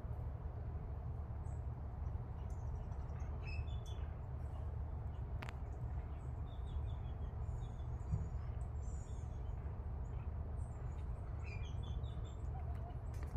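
Small birds chirping and twittering in short, scattered high notes over a steady low rumble, with a single click about midway.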